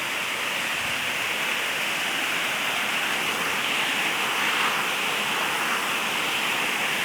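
Waterfall rushing: a steady, unbroken hiss of falling water with no change in level.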